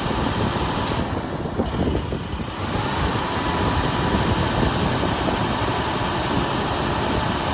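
Diesel engine of a 2011 International WorkStar 7300 bucket truck running steadily, with the PTO engaged to drive the hydraulics while the outriggers are lowered. A steady whine comes in about three seconds in.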